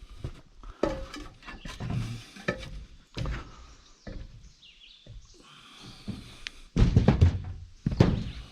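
Irregular knocks and thumps of a person moving about and handling things, with a cluster of heavy thuds about seven to eight seconds in.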